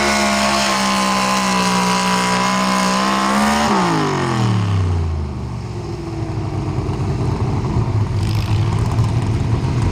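Pro Stock 4x4 pulling truck's engine held at high revs. About four seconds in it is throttled back, its pitch falling quickly, then it settles into a lower, rougher running.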